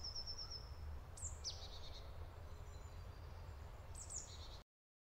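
Songbirds calling in forest: a quick high trill at the start, sharp high downward-sweeping calls about a second in and again near the end, over a steady low rumble. The sound cuts off suddenly about four and a half seconds in.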